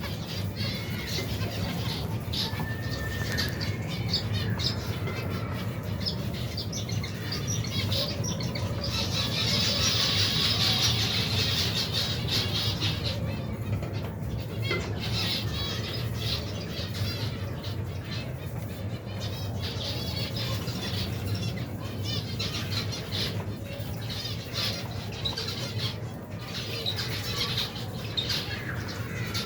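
Many finches in an aviary colony chirping and calling at once, short high notes overlapping with wing flutters, with a denser, louder burst of chirping around ten seconds in. A steady low hum runs underneath.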